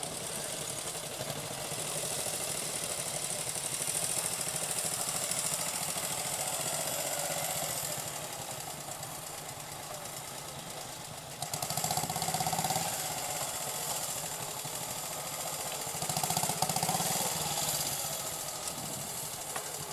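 Engines of several vintage Rudge motorcycles running at idle together, one revved up a little past halfway and again near the end.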